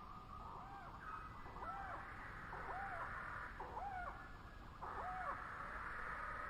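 Bird calling repeatedly: about five short arched notes, each rising and falling in pitch, spaced under a second apart, over fainter background birdsong.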